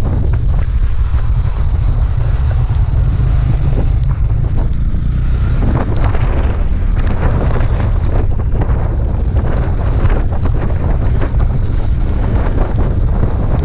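Steady wind buffeting the microphone, a heavy low rumble, over road traffic noise with scattered small clicks.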